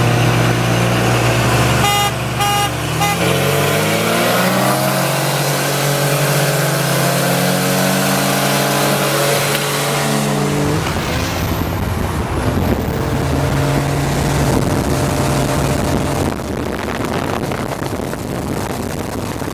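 A few short horn honks about two seconds in. Then a 24-valve Cummins 5.9 L inline-six turbo diesel pickup accelerates hard, its pitch rising in steps through the gear shifts. About eleven seconds in it backs off to a steady cruise under road and wind noise.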